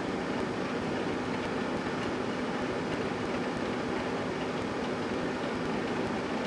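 GE Dual Wave microwave oven running, a steady electrical hum with the fan's rush.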